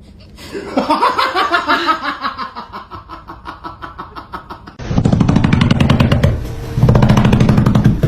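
Laughter-like rapid pulsing voice sound. About five seconds in it turns louder and deeper, then cuts off at the end.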